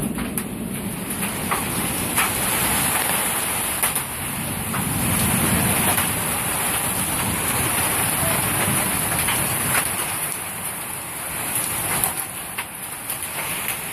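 Tornado storm: heavy rain and wind as a loud, steady rushing noise, with scattered sharp knocks striking through it.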